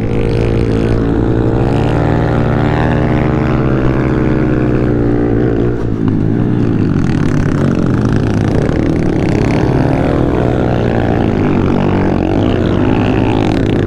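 Honda CRF110F pit bike's small four-stroke single-cylinder engine running on the move, its pitch rising and falling with the throttle, heard from on the bike.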